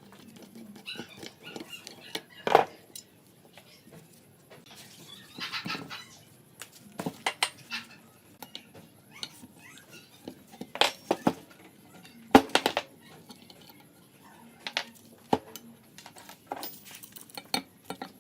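Irregular clicks, clinks and knocks of small metal carburetor parts and hand tools being handled and set down during hand work on the carburetor, with a few short scraping stretches. Two sharper knocks stand out, one a few seconds in and one past the middle.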